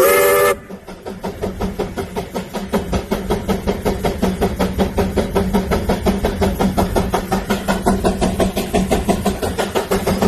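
Steam traction engine running under belt load, its exhaust beating steadily several times a second over a low steady hum. A steam whistle blast cuts off about half a second in.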